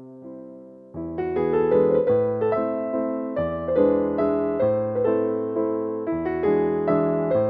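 Background piano music: a gentle electric-piano tune, quieter at first, then fuller chords and melody from about a second in.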